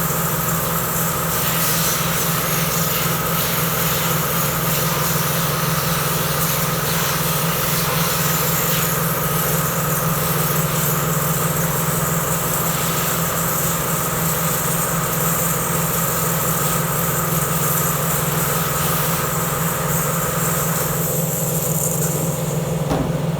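A motor running steadily with a constant low hum, under a high hiss that stops about 21 seconds in.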